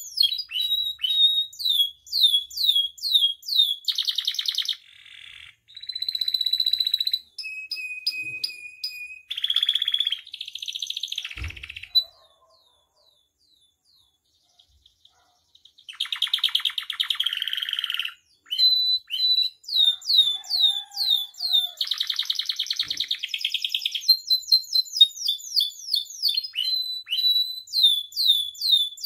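Domestic canary singing a long, varied song: rapid runs of repeated falling notes and buzzy rattles, breaking off for about three seconds midway before going on.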